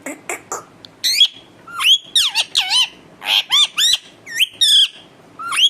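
Pet parrot squawking: a few short clicks, then from about a second in a quick run of shrill calls, each rising and falling in pitch.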